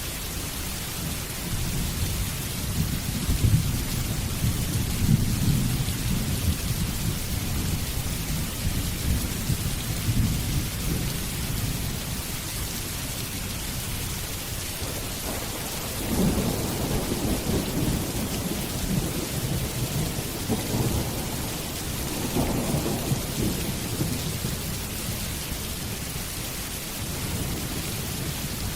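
Steady rain falling, with deep rolls of thunder rumbling under it: one long roll through the first part and another starting a little past halfway.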